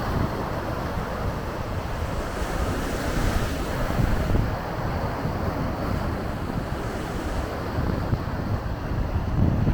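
Lake waves washing and breaking on the shore, with gusty wind buffeting the microphone in a low rumble.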